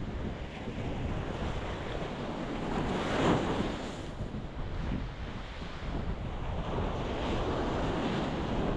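Ocean waves breaking against a rocky shore, a steady wash of surf with one wave crashing louder about three seconds in.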